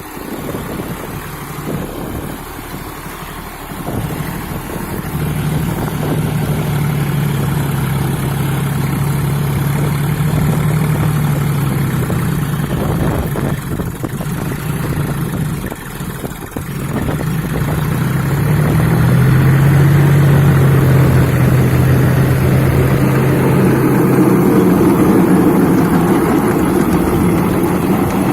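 A John Deere 40 hp tractor's diesel engine running steadily while pulling a rotavator. It grows louder about four seconds in, dips briefly a little past the middle, then comes up louder again.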